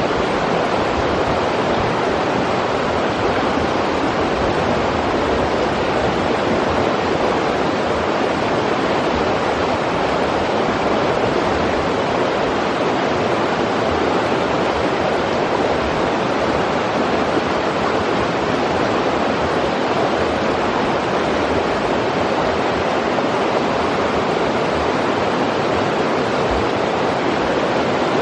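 A river's flowing water rushing steadily, an even, unbroken sound with no change in level.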